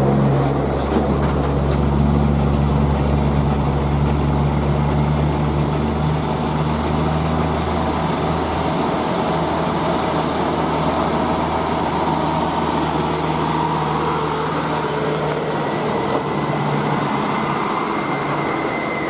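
Heavy diesel truck engine running with a steady low drone over road noise; the drone fades out over the second half. A thin, steady high whine comes in near the end.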